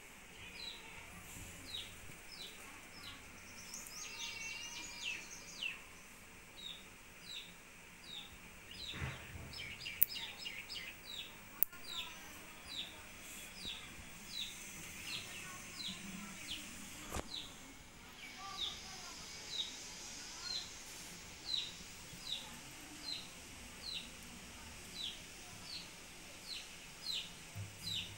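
A bird repeating a short, falling chirp about twice a second, over and over, with other birds chattering briefly about four seconds in. A few sharp clicks stand out near the middle.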